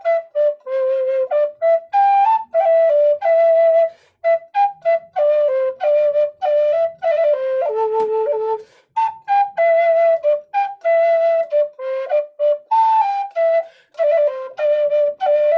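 Flute playing a slow, simple tune in short, separate notes at a steady pace, a beat to clap along to.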